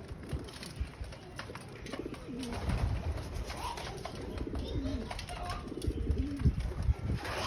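Pigeons cooing, low rolling coos repeating from about two seconds in, over scattered small knocks and clicks.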